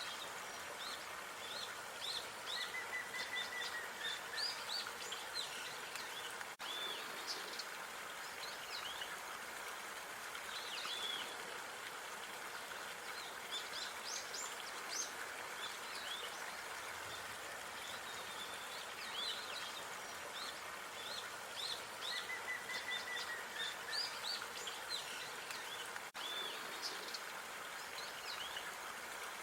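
Park ambience: many small birds chirping in quick short calls over a steady, even background hiss, with a brief trilling call twice.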